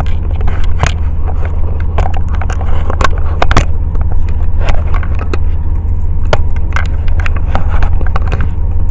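Steady low rumble inside a car cabin, with many irregular sharp clicks and knocks from a camera and its mount being handled and reattached close to the microphone.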